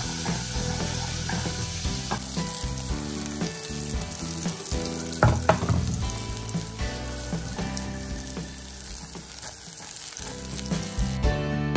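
Diced food sizzling and frying in a nonstick frying pan, stirred and tossed with a wooden spoon, with a louder clatter of the pan about five seconds in. Guitar music comes in near the end.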